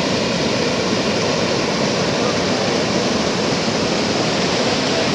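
High water pouring over an overflow weir after a storm: a loud, steady rush of water.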